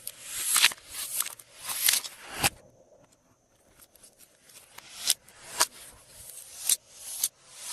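Glossy slime being worked by hand, giving crackly, squelching strokes that each build up and end in a sharp pop of air, about two a second, with a pause of a couple of seconds in the middle.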